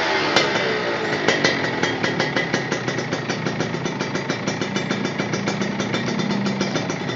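Engine with an aftermarket racing exhaust, most likely a motorcycle's, dropping from high revs at the start and settling into a steady, pulsing idle.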